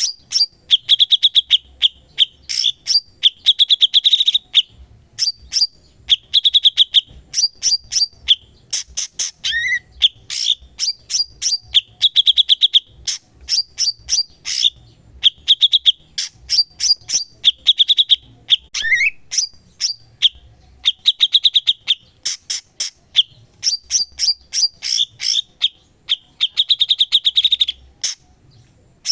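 Blue-winged leafbird (cucak cungkok) singing continuously: fast chattering trills and sharp chips in quick repeated phrases, with a short rising whistle now and then.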